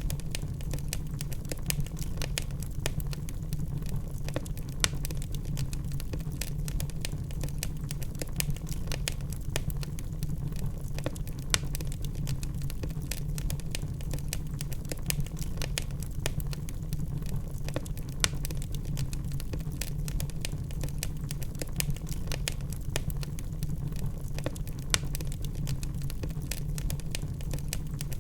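Wood fire burning in a fireplace: a steady low rumble of flames with constant small crackles and a few louder pops.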